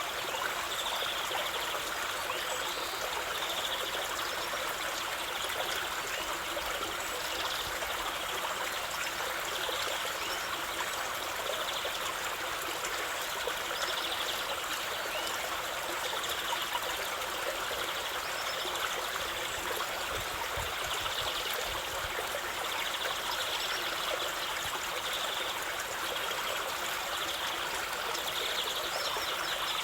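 Stream of running water flowing and trickling steadily.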